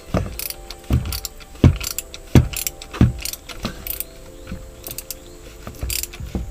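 Ratchet wrench worked in short strokes, clicking on each return, with a sharp knock about every three-quarters of a second for the first few seconds, then lighter clicks.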